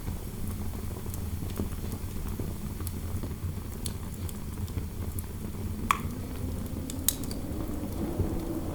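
Fireplace crackling with scattered sharp pops, two louder ones about six and seven seconds in, over a steady low rumble of wind howling through a room.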